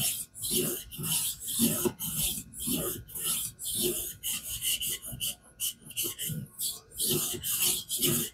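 Steel knife blade being stroked back and forth on a King whetstone held at a fixed angle by a guided sharpening system: a rhythmic, gritty rasp, about two strokes a second.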